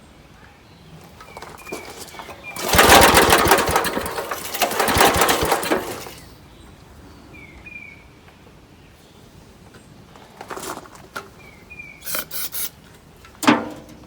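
Small gasoline engine on an air compressor being started: it catches and runs for about three seconds, then dies, and near the end gives several short sputters that do not keep it running. This behaviour is one the owner takes for a flooded engine.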